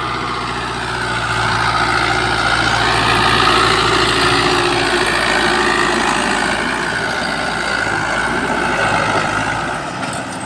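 A motor running steadily, with a low hum under a dense buzz; it grows a little louder a few seconds in and eases off near the end.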